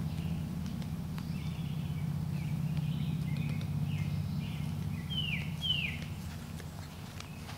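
Outdoor ambience of birds calling: a pair of short, quick downward-sliding chirps about five seconds in, with softer chirps before them, over a steady low hum.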